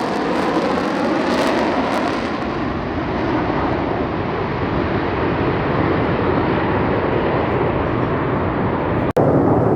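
An airplane's engine roar as it flies past and moves away, its high end fading over the first few seconds and leaving a steady low roar. Near the end the sound drops out for an instant and picks up again slightly louder.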